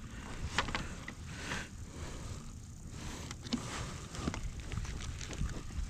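Faint scattered knocks, clicks and scrapes of things being handled and set down in a kayak, over a low steady rumble.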